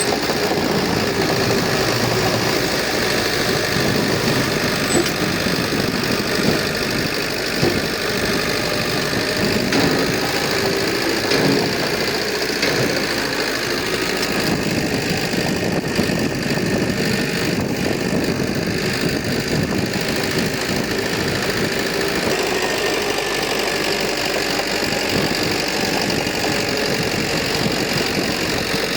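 Heavy earthmoving machinery's diesel engine running steadily, with a few brief knocks in the first half.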